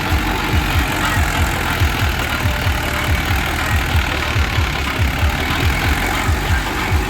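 HMT 50 hp tractor's diesel engine running steadily, driving a BOSS rotavator with no load on it: the rotavator is spinning free, not in the ground. There is a regular low beat of about three to four pulses a second under a steady mechanical hiss and rattle.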